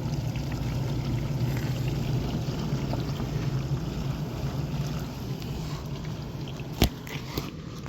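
Samsung DW80M9550UG dishwasher running, its pump humming steadily under the rush and splash of water circulating inside. The sound fades toward the end, and there is a sharp click near the end.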